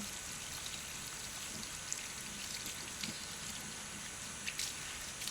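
Forest background: a steady high hiss with scattered light ticks and drips.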